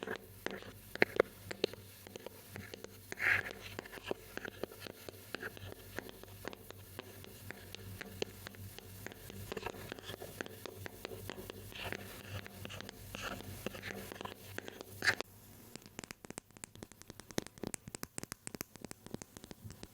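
Close-miked ASMR triggers: fingers scratching and handling objects with irregular clicks. About 15 s in, this switches abruptly to rapid light tapping.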